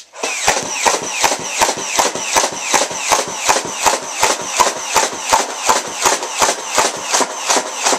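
Nerf N-Strike Stampede ECS motorized blaster firing on full auto: a steady run of sharp clacks, a little under three a second, over the constant high whine of its motors.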